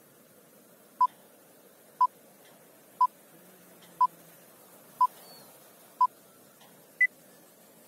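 Film-leader countdown beeps: seven short beeps, one a second, the first six at the same pitch and the last one higher, over a faint hiss.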